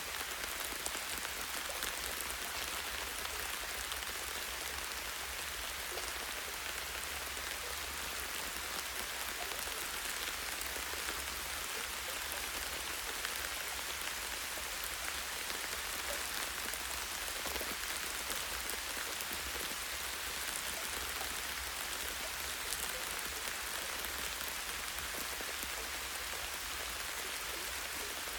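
Light, steady rain pattering on leaves and a tree branch, a constant hiss of drops with faint scattered ticks, over a steady low rumble.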